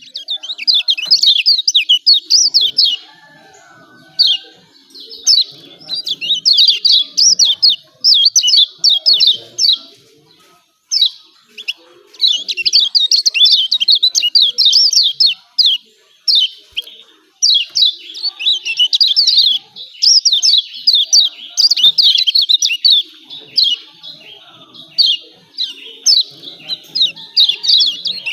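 Kecial kuning white-eye giving its excited 'ciak ciak' call: fast, high-pitched chattering phrases of one to three seconds, with short pauses between them.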